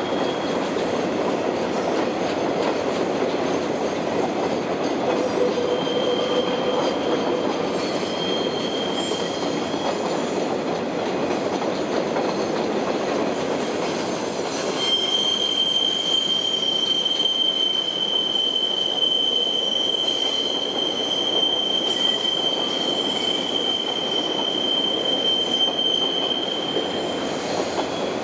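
Freight train wagons loaded with shipping containers, followed by empty log wagons, rolling past with a steady noise of wheels on rail. A high, steady wheel squeal comes in faintly about six seconds in, then plainly from about halfway through until near the end.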